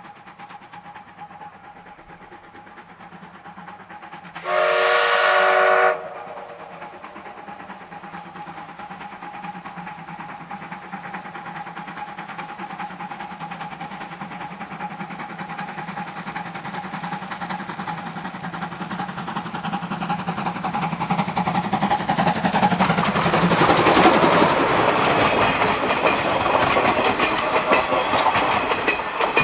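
Steam locomotive C12 66 blows one short whistle blast with several tones together, about five seconds in. It then draws steadily closer, its running and wheel noise on the rails growing louder to a peak as it passes, about 24 seconds in.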